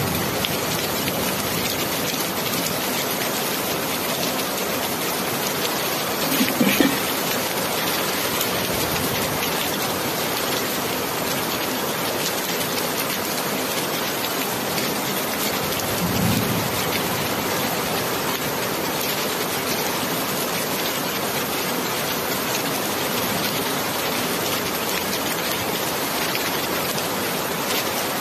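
Steady heavy rain falling in an even hiss, with a brief louder knock about a quarter of the way in and a softer low thud a little past halfway.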